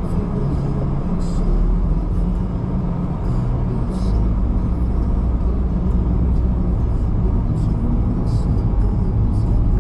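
Car driving: a steady low rumble of engine and road noise, with a few brief faint ticks now and then.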